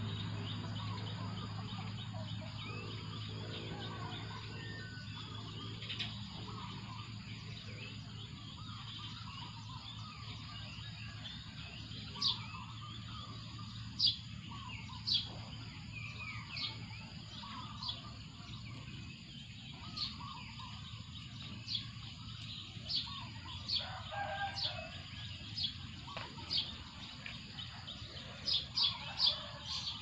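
Birds calling: many short, sharp high chirps, coming more often in the second half, over softer warbling calls. A low steady hum fades out during the first ten seconds or so.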